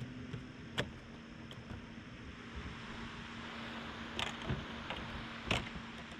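A few sharp knocks and clicks, the loudest a little past the middle and near the end, over a steady low hum and hiss.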